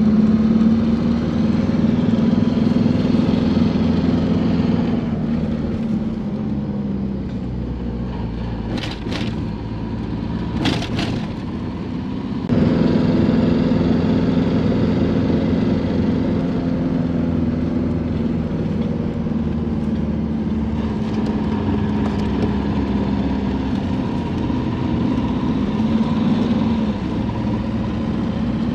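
Truck engine running steadily as the vehicle drives, its hum rising and falling slightly. About five seconds in it drops quieter, two sharp clicks sound, and then the engine comes back louder all at once.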